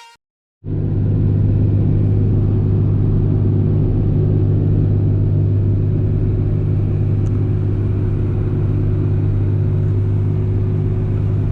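An engine running steadily, a low even rumble that starts abruptly just under a second in and holds without revving.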